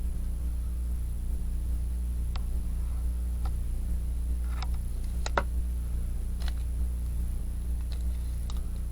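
About seven sharp, scattered clicks over a steady low hum, the loudest a little past the middle.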